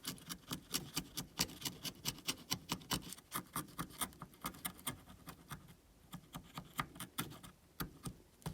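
Knife blade scraping old adhesive residue off an iPhone 11 Pro's metal housing after the back glass has been removed, in short repeated scraping strokes, about four a second, that thin out about halfway through and pick up again near the end.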